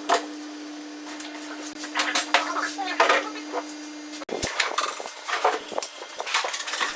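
Irregular knocks and clinks of hard objects being handled, over a steady hum that cuts off abruptly about four seconds in.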